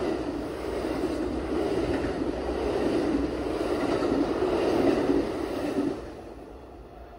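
Passing train's railcars rolling on the track, a steady rushing rumble that falls away about six seconds in.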